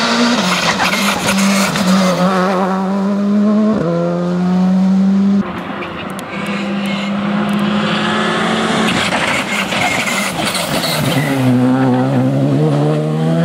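Rally car engine at high revs, climbing and dropping through gear changes; it lifts off sharply about five seconds in, and its pitch falls through downshifts about two-thirds of the way through before it pulls again.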